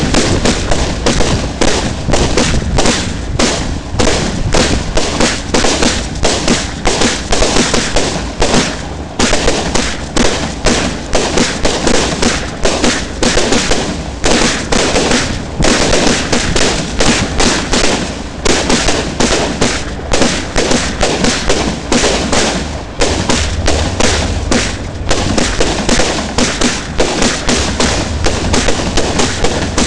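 Fireworks heard at close range from within the display: a loud, unbroken barrage of launch shots and bursts, several a second.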